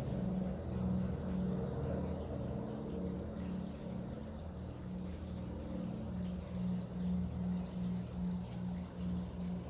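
Water pouring and trickling steadily from a bird-blind water feature, with a low hum that pulses about three times a second.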